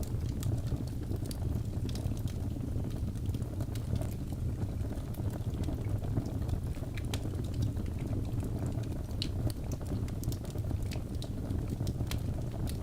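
Birch logs burning in a fireplace: a steady low rumble of the fire with frequent small, sharp crackles and pops scattered throughout.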